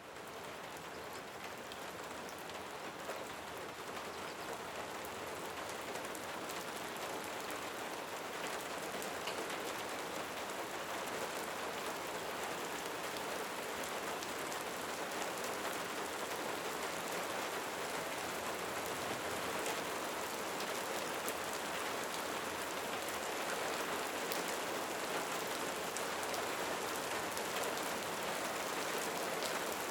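Steady rain falling, a dense even patter of many small drops. It fades in from silence at the start and grows slowly louder.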